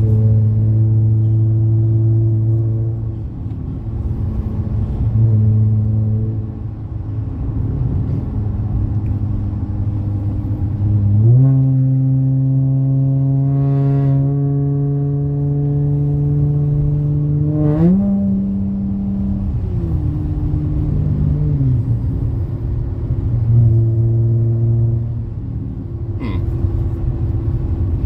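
Dodge Challenger engine and MagnaFlow Magnapack exhaust at a steady cruise drone. About eleven seconds in, the revs rise and hold. A little later they climb again briefly, then drop back to the cruise note.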